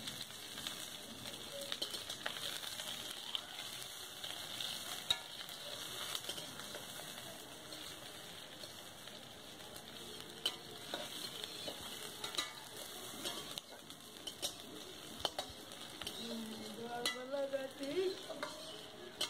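Chopped onion, garlic and green chilli frying in a metal wok over a wood fire, sizzling steadily, while a metal ladle stirs them, scraping and clinking against the pan now and then.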